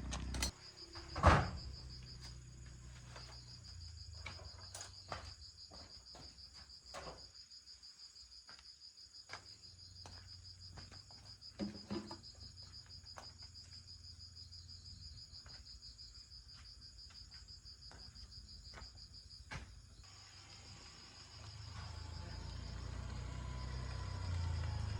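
A cricket-like insect chirping in a steady, fast-pulsing high trill that stops near the end, with scattered light clicks and one sharp knock about a second in; a low rumble rises over the last few seconds.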